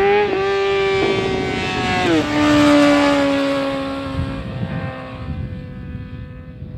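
Motorcycle engine at high revs, its pitch dropping sharply twice at gear changes, then holding steady and sliding slowly lower as it fades away.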